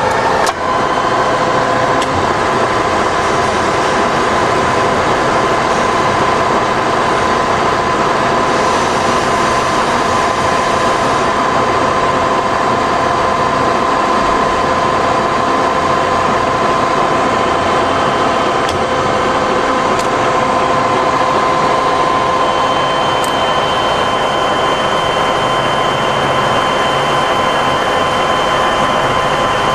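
Cincinnati rise-and-fall milling machine running through its automatic cycle, a steady mechanical drone with a constant whine. A higher-pitched whine joins about two-thirds of the way through.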